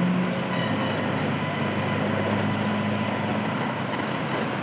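An engine running steadily, a low drone under a steady wash of outdoor noise, from construction machinery or passing traffic.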